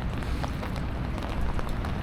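Steady rain falling on the street, an even hiss with scattered sharp drop ticks, over a constant low rumble.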